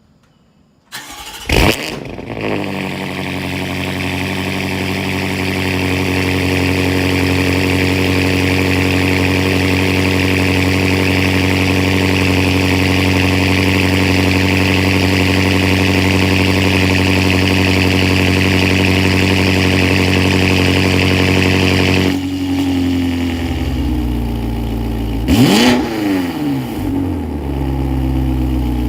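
A vehicle engine starting, catching after about a second with a brief rev, then idling steadily at a fairly high speed. About twenty-two seconds in the idle drops to a lower speed, and the throttle is blipped twice near the end, the revs rising and falling each time.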